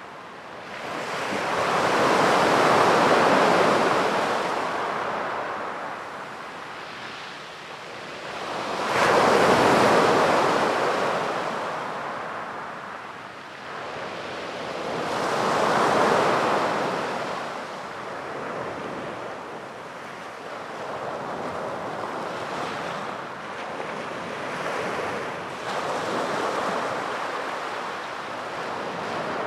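Sea waves breaking and washing on a beach, in slow surges: three big swells of surf about six to seven seconds apart, then a run of smaller, gentler ones. Some wind noise lies beneath.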